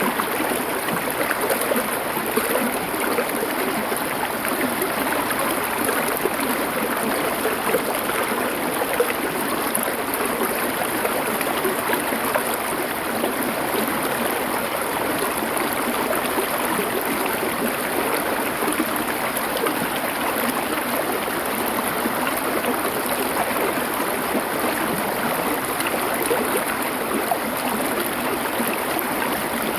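Shallow river or stream flowing over stones: a steady, dense rush of water.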